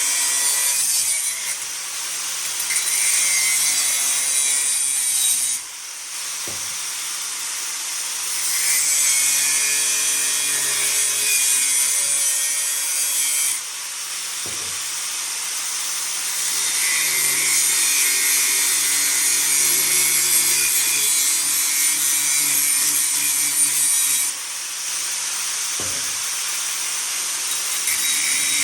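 Angle grinder working steel exhaust pipe: a steady high-pitched grinding hiss over the motor's hum, with the cut easing briefly three times, about 6, 14 and 24 seconds in, as the disc comes off the metal.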